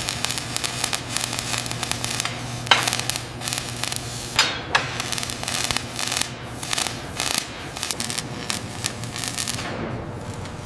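Dense, irregular crackling with a few sharper snaps, over a steady low hum.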